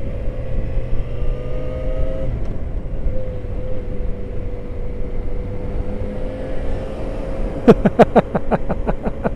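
Motorcycle engine running at a steady speed under way, with wind and road rumble. Near the end a rapid series of sharp pulses, about five a second, cuts in over it.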